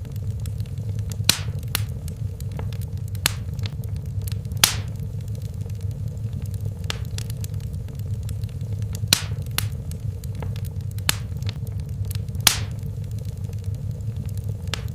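Wood fire burning in a fireplace: a steady low rumble of flames with sharp crackles and pops at irregular intervals, a few of them louder than the rest.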